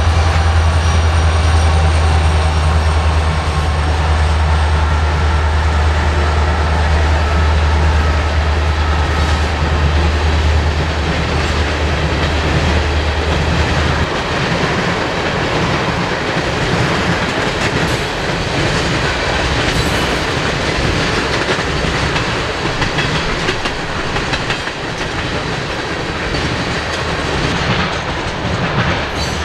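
Norfolk Southern freight train passing. Its diesel locomotives run with a deep, steady engine rumble that stops abruptly about halfway through. Tank cars then roll by with the clickety-clack of wheels over rail joints.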